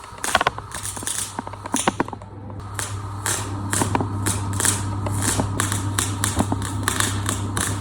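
Gas MIG welder laying a bead: the arc crackles and spits irregularly over the welder's steady transformer hum, getting denser and louder after about three seconds.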